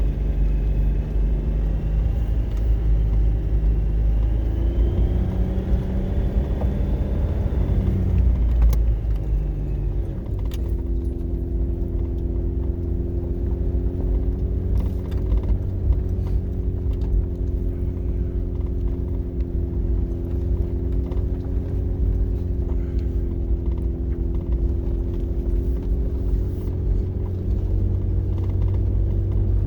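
Motor vehicle driving with a steady low rumble. The engine's pitch climbs for a few seconds, changes about ten seconds in, then holds even.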